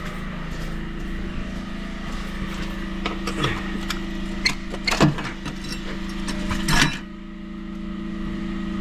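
Crowbar clanking and scraping against a metal channel drain grate as it is prised up, several sharp knocks in the middle and the loudest near the end, over the steady hum of a running pressure-washer engine. A background hiss cuts off about seven seconds in.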